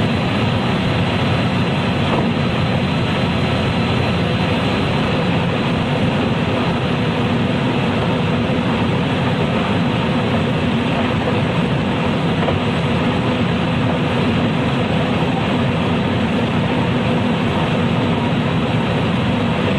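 Running sound of a JR West 223 series electric train's motor car (KuMoHa 223-3016) at speed: a steady rumble of wheels and running gear on the rails, heard from inside the car, with no change in pace.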